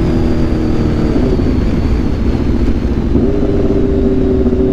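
Aprilia RSV4's V4 engine through an SC-Project CRT exhaust, running at highway speed with heavy wind rush on the microphone. The engine note drops away about a second in, then settles back onto a steady note at about three seconds.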